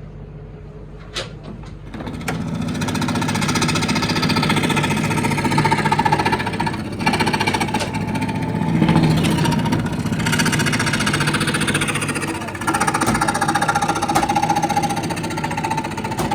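A woodworking power tool starts about two seconds in and runs loudly with a steady hum, its sound shifting and dipping briefly a couple of times as it works the wood.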